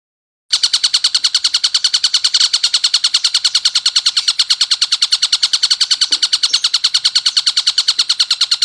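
Tengkek buto kingfisher giving a rapid, harsh chattering call, about eleven notes a second, starting about half a second in and running on without a break.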